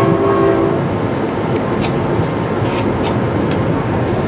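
Passenger train running at speed, heard from inside a coach: the steady rumble of wheels on rail with a few faint clicks. A train horn sounds briefly at the start.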